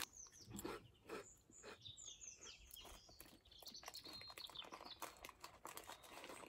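Quiet outdoor near-silence with small birds chirping faintly, a run of short high falling chirps in the middle. Soft crunching of crisps being chewed.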